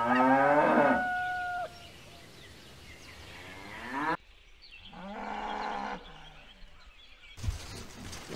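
Cattle mooing: a loud moo in the first second and a half, a call rising in pitch just before four seconds, and another moo from about five to six seconds in. Near the end a short thump.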